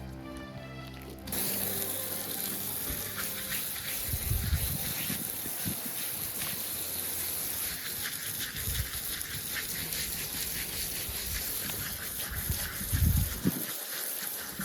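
Background music ending about a second in, then a steady rush of flowing water with a few low thumps.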